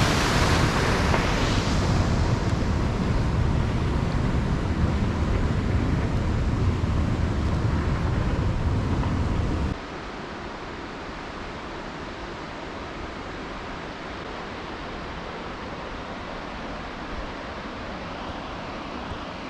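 Wind buffeting the microphone over a loud, even rushing noise, then an abrupt cut about halfway through to a quieter, steady rushing hiss.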